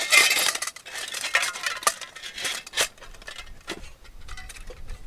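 Metal clinks, clatters and scraping of Trangia camp-stove parts being handled and the gas burner adapter fitted, busiest in the first three seconds, then a few sparser clicks.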